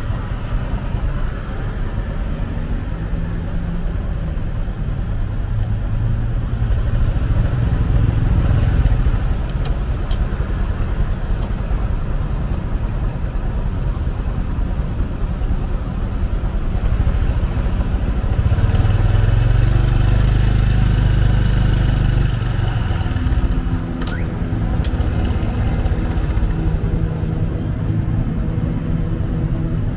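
Motorcycle taxi's engine running while under way, heard from the pillion with a steady low rumble of engine and road noise. It gets louder twice, about a quarter of the way in and again past the middle, as the bike speeds up.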